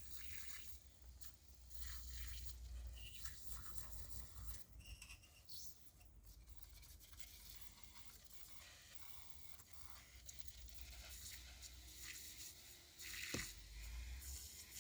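Faint, irregular scrubbing and scraping of a bristle brush worked through the rusty passages of a Chevy 283 cast-iron engine block, with one sharp knock near the end.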